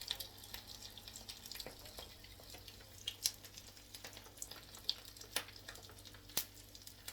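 Breaded chicken croquettes frying in hot oil: a low, steady sizzle with a few sharp pops.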